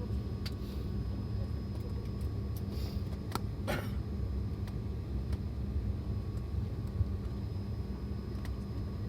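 Steady low hum inside an airliner cabin on the ground, with a faint steady whine over it, broken by a few light clicks and two short hisses around three to four seconds in.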